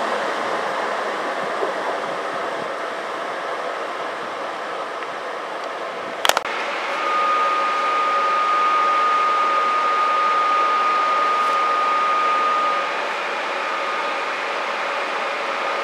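Electric locomotive-hauled passenger train rolling away along the platform, a steady rumble and hiss of wheels and running gear. About six seconds in there is a short click, then steadier station noise with a thin high tone that holds for several seconds.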